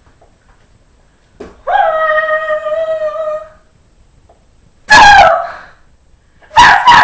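A person's voice making animal noises for a hand puppet: one long, steady, high-pitched call, then two short, loud yelping cries.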